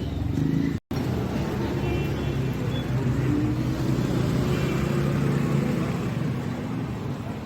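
Roadside traffic noise: a steady low hum of passing vehicles, broken by a brief dropout just under a second in.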